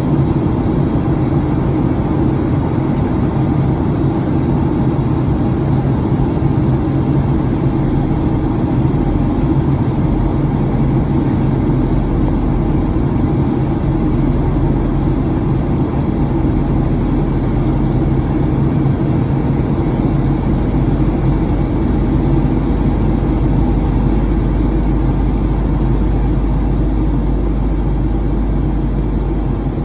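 Steady cabin noise inside a Boeing 737-900ER in flight: a continuous drone of engines and rushing air. A deeper low rumble joins it about nine seconds in and stays.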